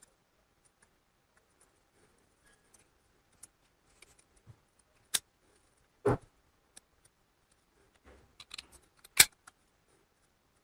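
Scattered clicks and light knocks of small hard parts being handled: two sharp ones about halfway through, then a cluster near the end with the loudest click of all.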